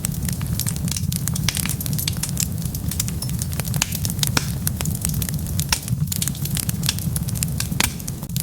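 Wood fire burning, crackling with many sharp pops every second over a steady low rumble of the flames.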